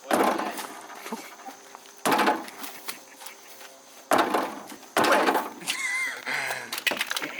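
Four loud cracking knocks, one to two seconds apart, then lighter rattling near the end: car body or trim parts being forced and broken off while a car is stripped.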